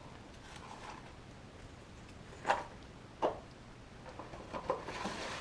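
Handling noises: two sharp clicks or knocks about three-quarters of a second apart, then a few lighter clicks and a short rustle near the end.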